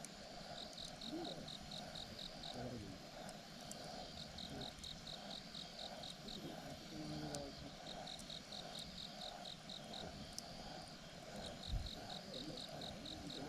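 Insects chirping in short repeated trains of rapid pulses, about five a second, over a lower steady pulsing trill, with faint scattered crackles from a campfire. A single dull thump comes near the end.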